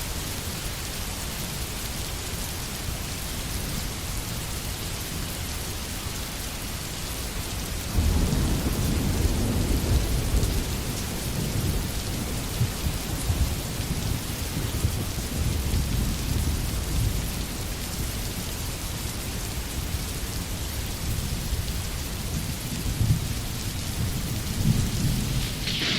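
Steady rain falling in a forest, with a low rumble of thunder that starts suddenly about eight seconds in and rolls on for several seconds, then more rumbles near the end.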